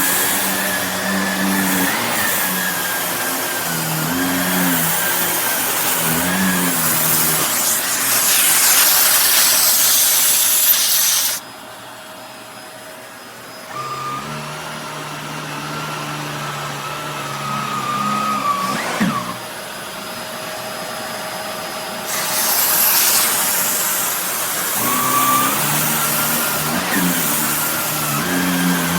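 Shark Navigator Lift-Away upright vacuum cleaner running with a steady motor whine. The sound drops sharply about eleven seconds in, and comes back at full loudness later on.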